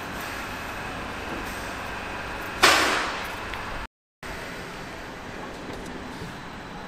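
Abellio electric regional train rolling slowly into the platform. About two and a half seconds in comes a sudden loud hiss of air that fades over about a second, typical of the pneumatic brakes.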